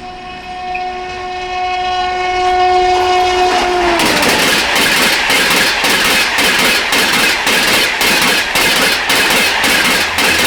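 A WAP-5 electric locomotive sounds a long steady air-horn blast as it approaches at about 160 km/h, and the pitch drops about four seconds in as it passes. Then the Gatiman Express coaches rush by with a loud rhythmic clatter of wheels over rail joints, which dies away just after the end.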